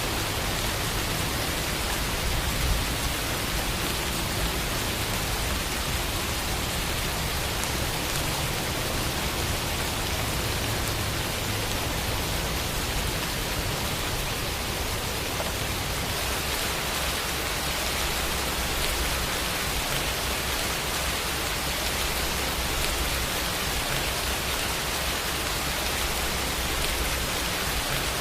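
Steady rain falling, a dense, even hiss of raindrops with no other sounds.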